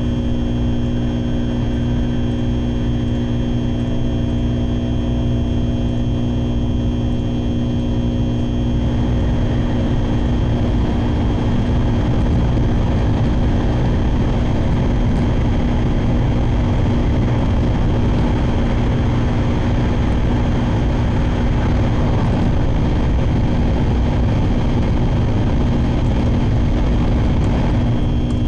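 Steady running noise of a Shinkansen bullet train at speed, heard inside the passenger car: a deep rumble of wheels and track with a constant motor hum over it.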